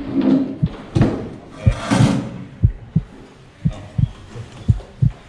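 A steady low thumping beat, two thumps roughly once a second like a heartbeat rhythm, with a short burst of noise about two seconds in.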